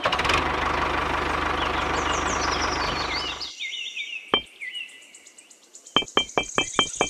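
A small tractor engine running steadily with a fast, regular putter, cutting off about three and a half seconds in, with birds chirping over its end. Near the end a light music track of quick plucked notes starts.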